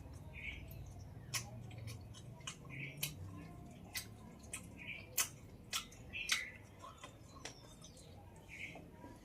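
Close-up eating sounds: chewing of rice and chicken curry, with sharp wet mouth clicks and smacks at irregular intervals.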